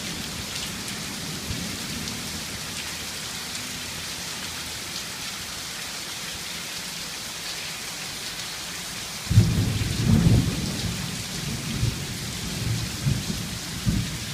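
Heavy rain pouring steadily onto the road, with a sudden loud rumble of thunder breaking in about nine seconds in and rolling on for several seconds.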